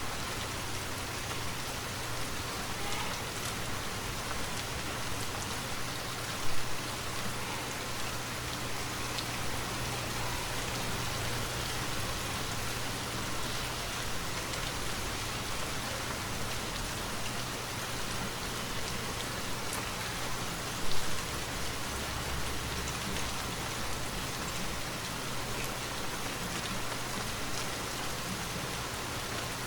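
Steady rain falling as an even hiss, with two brief louder knocks about a fifth of the way in and again about two-thirds of the way in.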